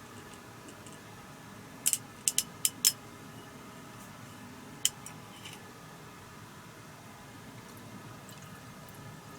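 A quick run of five sharp clicks or taps, then a single click about two seconds later and a few faint ones after, over a steady low hum in a small room.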